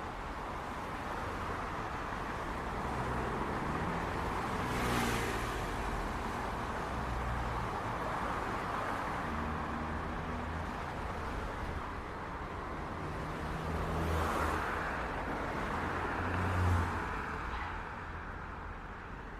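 City street traffic: a steady wash of engines and tyre noise, with vehicles passing close by about five seconds in and twice more near the end.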